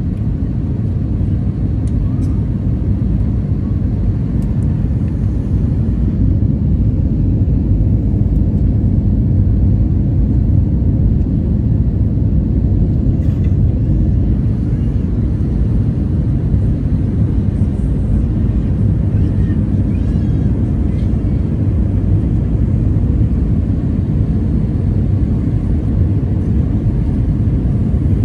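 Steady low rumble of airflow and engines inside an Airbus A320 passenger cabin on approach for landing.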